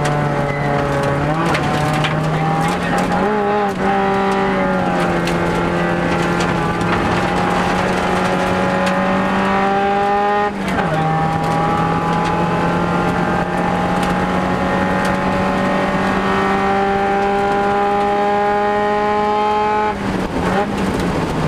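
Subaru Impreza WRX STI rally car's turbocharged flat-four engine at full throttle, heard from inside the cabin, its pitch climbing steadily with a brief dip at an upshift about ten seconds in and a fall as it lifts off near the end. Tyre and gravel noise runs underneath.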